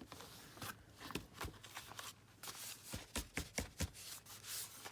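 A folded stack of journal paper being handled: paper rustling and rubbing, with scattered light taps and clicks.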